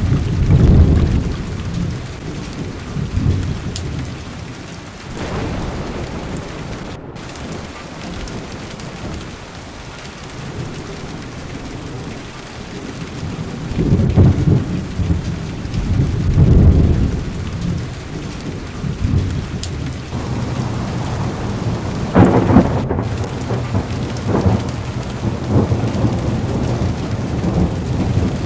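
Heavy rain pattering steadily on a car's windows and roof, with deep rolls of thunder rumbling in near the start, about halfway through, and again in the last third.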